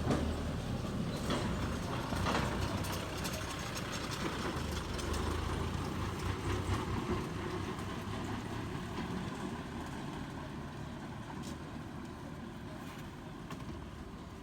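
Motorcycle engine idling with a steady low rumble that slowly grows quieter through the second half.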